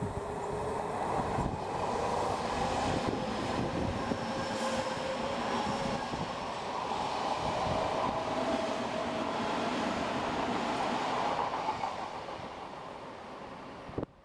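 Odakyu Line train passing close by, its wheels clattering over the rail joints, with a whine that rises slightly in pitch. The sound cuts off suddenly near the end.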